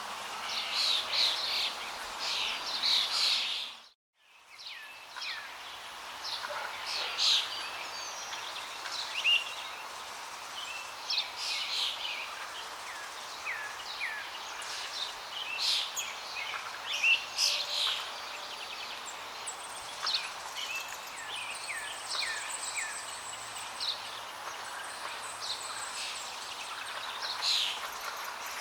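Many birds chirping and calling over a steady rush of flowing water. The sound cuts out completely about four seconds in, then fades back up.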